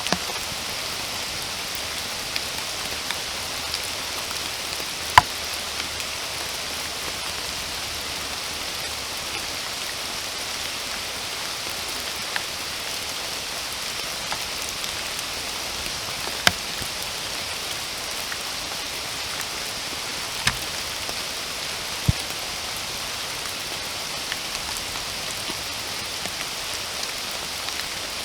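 Steady rain falling, an even hiss with a handful of louder single drops landing close by every few seconds.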